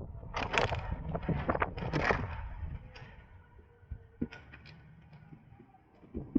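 Wind buffeting the microphone on a moving electric motorcycle, gusty for the first couple of seconds and then dying away about three seconds in, leaving only faint noise and a few light clicks.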